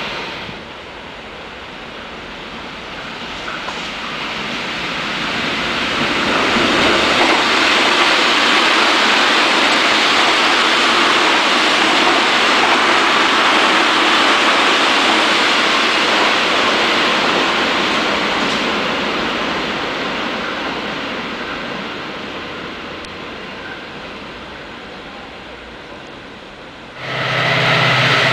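Stainless-steel commuter electric train passing at speed: a steady rush of wheels on rail that swells over several seconds, holds, then slowly fades. Near the end it gives way abruptly to a louder noise with a low hum as another train approaches.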